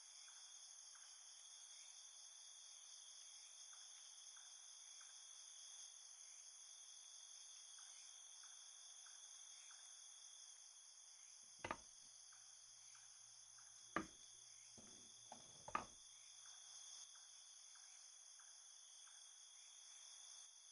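Faint, steady high-pitched chirring of crickets at night. A few sharp knocks cut through it about twelve, fourteen and sixteen seconds in.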